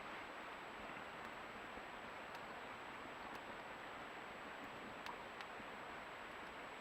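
Faint steady hiss with a few soft clicks scattered through it.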